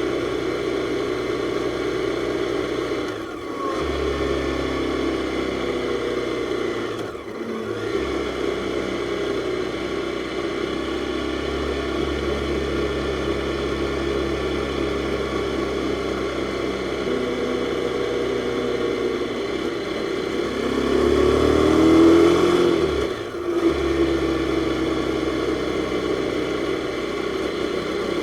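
Jawa 42's single-cylinder four-stroke engine running under way on a motorcycle. There are brief dips in the sound about three and seven seconds in, like gear changes. Around twenty seconds in the engine rises in pitch as it accelerates, and it is loudest just before another short dip.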